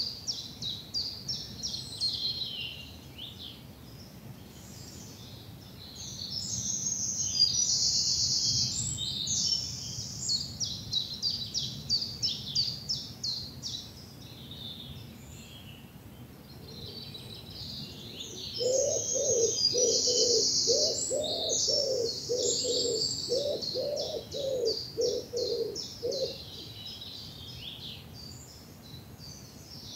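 Spring woodland dawn chorus: several songbirds sing high, rapid trills and phrases, loudest in two stretches about seven and nineteen seconds in. From about eighteen to twenty-six seconds, a lower bird call repeats about twice a second beneath them.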